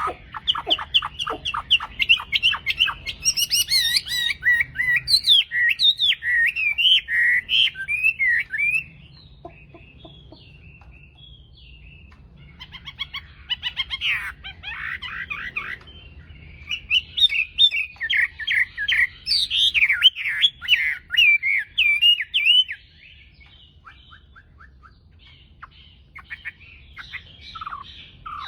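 Chinese hwamei singing: fast, varied runs of whistles and trills in three bouts, with pauses of a few seconds between them and a longer lull near the end.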